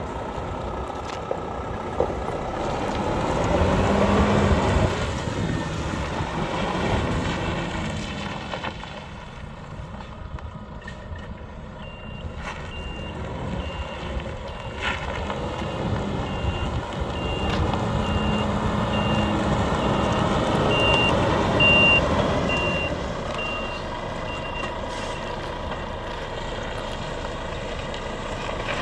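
Volvo FH540 tractor unit's 13-litre six-cylinder diesel running, its note rising twice as the truck is manoeuvred. A reversing alarm beeps steadily for a long stretch through the middle.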